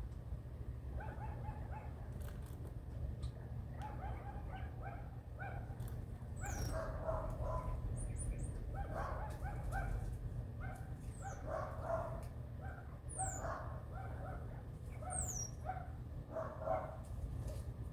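Birds calling: clusters of short, repeated squawking calls with high, quick falling chirps every second or two, over a steady low hum.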